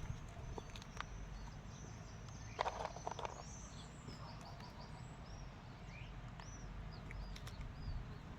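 Small songbirds chirping on and off in short high calls over a steady low outdoor background hum. A brief louder sound comes about three seconds in.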